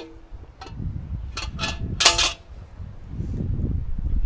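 Metal knocks and clinks with short ringing: a large pot knocking against a steel-rebar trivet. Four or five knocks fall between about half a second and two seconds in, the last the loudest, over a low rumble.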